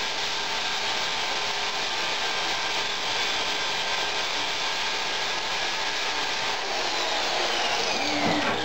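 A power grinder running against steel: a steady hiss with a held whine, and a falling whine near the end.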